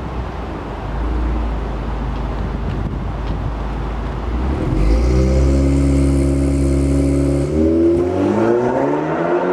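Exhaust note of a 2013 Audi A4's tuned turbocharged four-cylinder through an AWE Touring quad-tip exhaust: a low rumble at first, then about five seconds in a stronger, steady drone that is held for a few seconds before rising in pitch as the engine speed climbs near the end.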